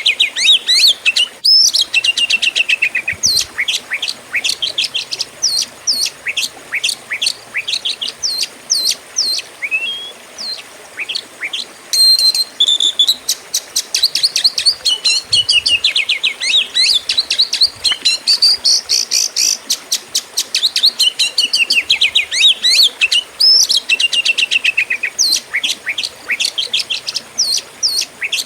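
Oriental magpie-robin (kacer) in full, aggressive fighting song: a fast, unbroken stream of loud chirps, rapid trills and rising and falling whistled notes. A single sharp click sounds about a second and a half in.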